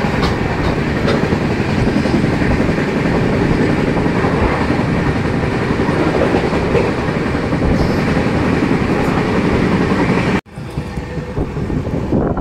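LHB passenger coach running at high speed: a loud, steady rumble of wheels on rail mixed with rushing air at the open door. About ten seconds in it cuts off abruptly, and a quieter run of the train follows.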